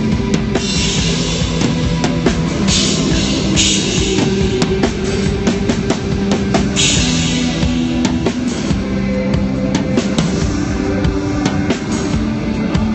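A rock band playing live at a sound check. A full drum kit with repeated cymbal washes plays over sustained low instrument notes.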